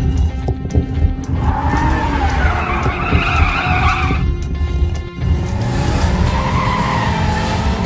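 Cartoon car tyres squealing with a wavering pitch, twice: from about a second and a half in, and again from about five and a half seconds, over a low rumble and background music.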